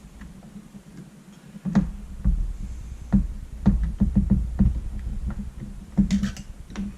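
Irregular clicks and knocks of a paintball marker being handled while an Allen key works the bolts holding its trigger group, over a low handling rumble. There is a short scrape a little before the end.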